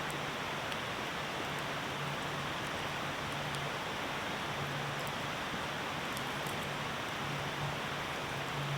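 Steady hiss of rain falling, with faint scattered pops from a crackling campfire.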